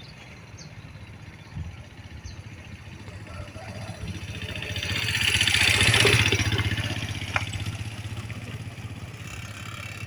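A motor vehicle passes by, its engine sound swelling to a peak about six seconds in and then fading away.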